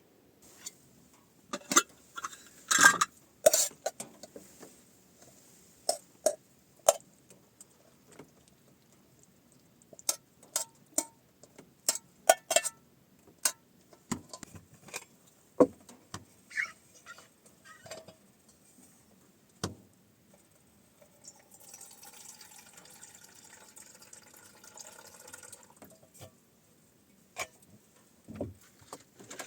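Handling noises: a series of sharp clicks, knocks and clinks, the loudest a few seconds in, then about four seconds of a steady rushing sound like liquid being poured.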